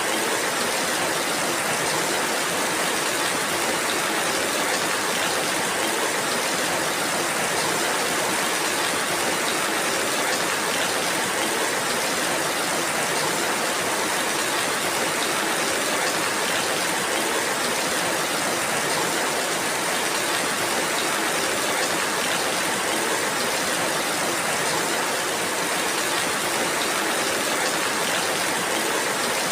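Steady rainfall, an even hiss of rain with no single drops or other events standing out.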